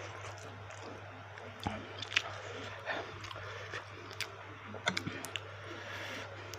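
Close-miked chewing of baso aci, chewy tapioca meatballs: soft wet smacks and mouth clicks about every half second to second, over a steady low hum.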